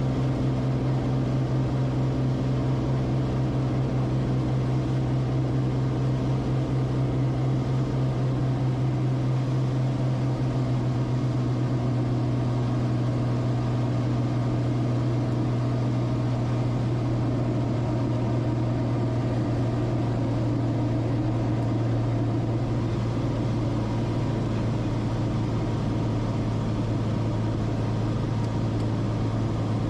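Steady drone of the Cessna Corvalis TTX's turbocharged six-cylinder Continental engine and propeller heard in the cabin, a constant low hum with no change in power.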